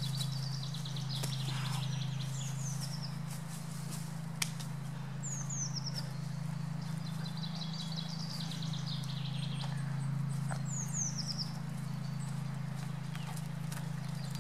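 Small birds singing: repeated high chirps that slide down in pitch, and short trills, over a steady low hum, with one sharp click about four seconds in.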